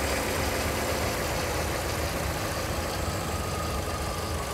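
Toyota 1NZ-FE 1.5-litre four-cylinder petrol engine idling steadily, heard over the open engine bay. It runs smooth and even.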